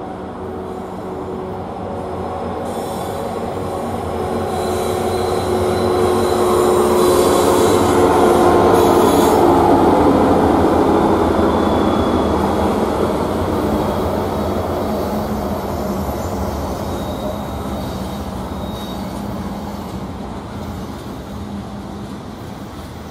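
Union Pacific diesel freight locomotives approaching and passing, their engines' drone swelling to its loudest about eight to ten seconds in. Then the steady rumble of tank cars and covered hoppers rolling by on the rails, with a few thin high wheel squeals.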